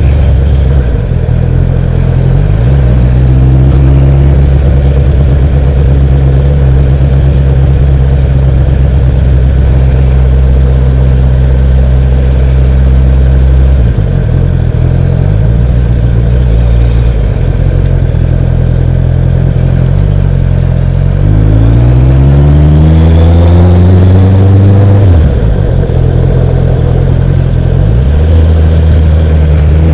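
Honda CB650F's inline-four engine heard from the rider's seat, running at a mostly steady pitch with a few small changes in note. About three-quarters of the way through it revs up in a long rising pitch, then drops off suddenly, and climbs again near the end.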